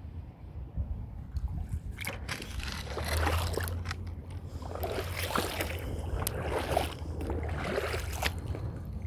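Wind buffeting the microphone in a low rumble, with irregular crunching and rustling footsteps from about two seconds in to near the end.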